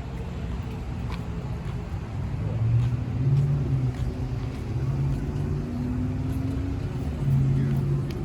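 Car driving: steady engine hum and road rumble. The engine tone shifts up and down in pitch and swells louder a few times.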